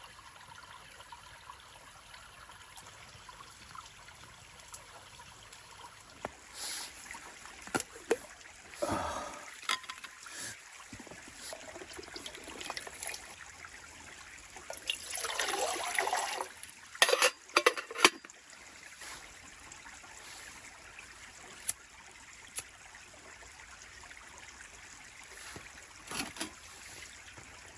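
Steady trickle of a stream running, with a few brief rustles and knocks about a third and a half of the way in, and sharp clicks soon after.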